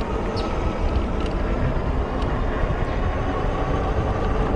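Steady rush of riding a bike: wind buffeting the microphone with a heavy, fluctuating low rumble, over road noise and a faint steady whine.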